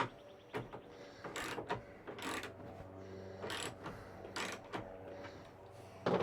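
Mechanical clicking and rattling, a handful of short scraping strokes about a second apart, with a faint steady hum underneath.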